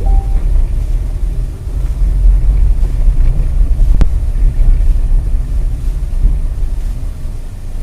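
Steady low rumble of a moving car picked up by a dash camera's microphone, with road and wind noise, and one sharp click about four seconds in.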